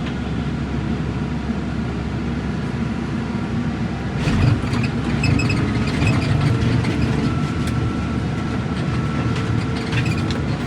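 Heavy demolition machine's engine running under load, heard from the operator's seat, with cracking and crunching of a house's timbers and debris from about four seconds in as the house is smashed.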